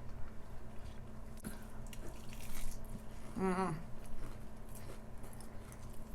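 Quiet wet mouth sounds of eating, with a short wavering hummed "mm" about halfway through.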